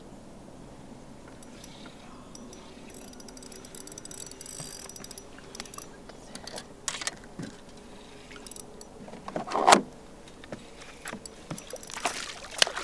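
Fishing gear being handled on a boat: scattered light clicks and rattles, with one louder knock about ten seconds in and a few sharper clicks near the end.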